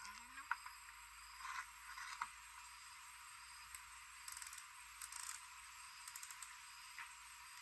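Light clicks and small rattles of hard parts being handled on a workbench, some single and some in quick clusters about four, five and six seconds in, over a steady hiss.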